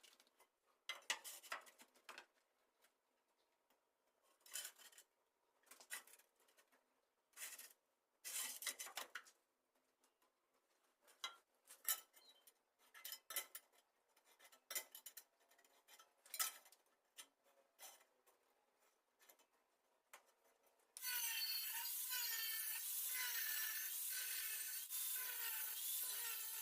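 Short, separate bursts of scraping and rubbing, typical of ceramic tile being handled and marked out for measuring. About four-fifths of the way through, a louder steady sound with wavering pitched tones takes over.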